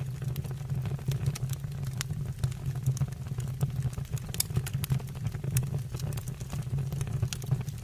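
Wood fire burning in a fireplace: a steady low rumble of the flames with constant crackling and a few sharper pops.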